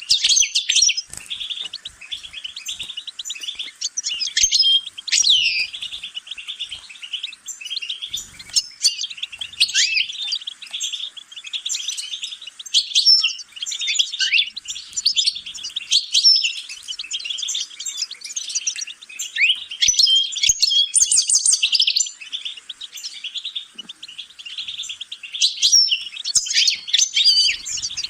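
European goldfinch singing a long, continuous song of rapid twittering and quick rising and falling notes.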